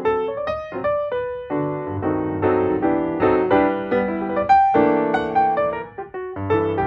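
Background music played on piano: a steady stream of single notes and chords, each struck and then fading.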